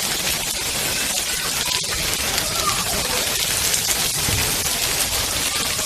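Heavy rain pouring steadily, a dense even hiss of drops hitting the ground and surfaces.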